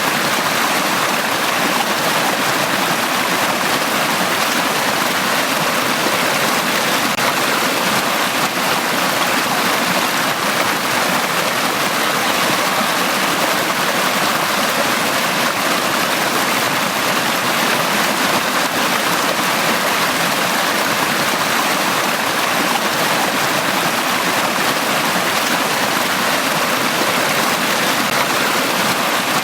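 Valley stream water flowing steadily, an even, unbroken rush of water.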